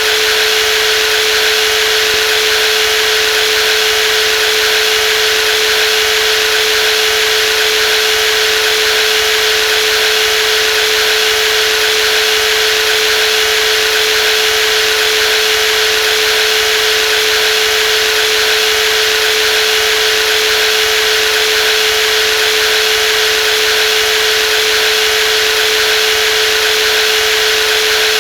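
Brushless jigsaw running steadily with a constant single-pitched motor whine over a hiss. It does not change in speed or load.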